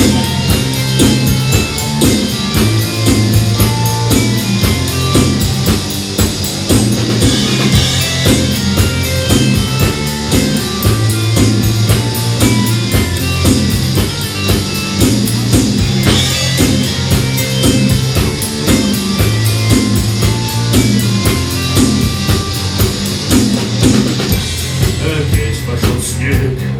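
Live rock band playing an instrumental intro: a drum kit keeps a steady beat under bass and electric guitar, with short, high melodic notes repeating over the top.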